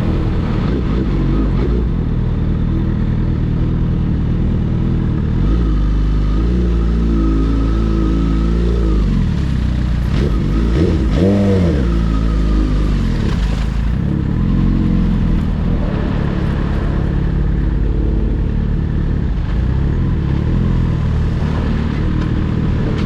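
Superbike engine running under way, its pitch rising and falling as the throttle opens and closes, with a quick sharp rev about eleven seconds in.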